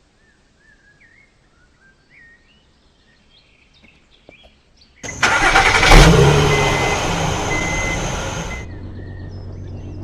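Birds chirping faintly. About five seconds in, a sudden loud rushing noise starts, with a thump a second later; it fades over a few seconds and settles into a steady low hum as the chirping goes on.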